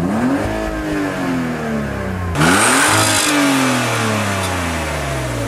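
Car engine revved twice while parked, each blip rising quickly and then dying slowly back down toward idle; the second rev, about two and a half seconds in, is louder, with more exhaust hiss.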